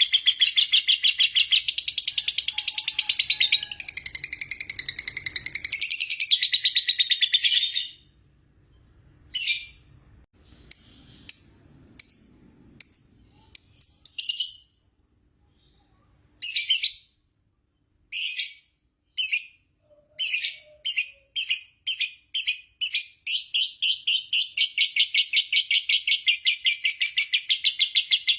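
Lovebird singing the long 'ngekek' chatter: a fast, high, rattling trill held for about eight seconds, then broken into short bursts with silent gaps, before picking up again into an unbroken run over the last several seconds.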